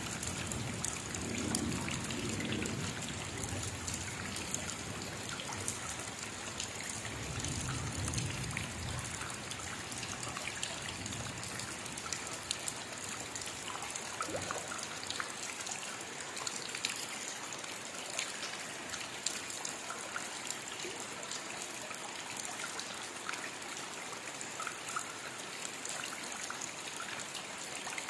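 Steady rainfall, a continuous hiss of rain with many separate drops ticking through it. A low rumble swells and fades twice in the first nine seconds or so.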